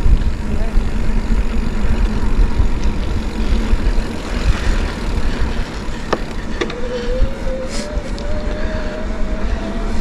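Steady low rumble of a mountain bike rolling over a dirt trail, with wind noise on the microphone. About six seconds in come two sharp clicks, then a faint thin tone that slowly rises in pitch.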